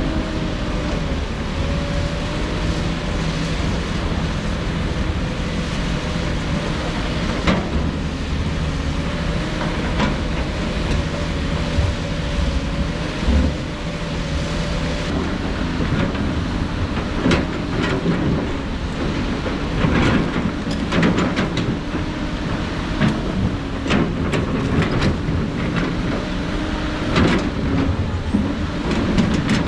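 Heavy diesel engine of construction machinery running steadily, with repeated sharp knocks and clatter of rock against steel, thickest in the second half.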